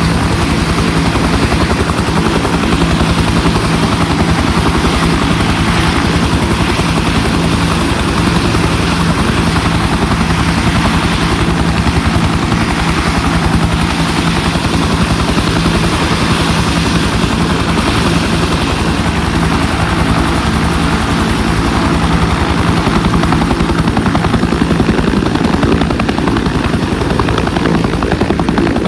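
UH-1 helicopter's turboshaft engine and two-blade main rotor running steadily, a loud continuous drone with a fast, even rotor beat, heard from aboard the aircraft.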